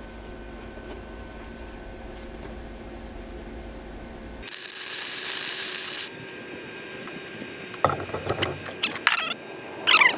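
A wire-feed welder's arc sizzling in one short burst of about a second and a half, over a steady low hum. A string of sharp metallic clicks and knocks follows near the end.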